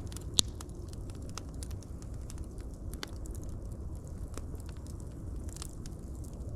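Wood fire crackling, with scattered sharp snaps over a steady low rumble of burning and one loud pop about half a second in.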